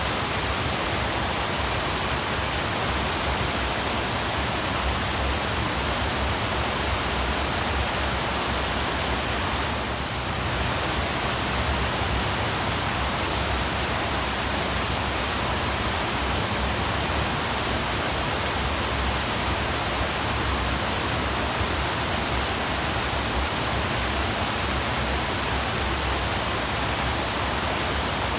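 Waterfall rushing: a steady, even roar of falling water, easing slightly for a moment about ten seconds in.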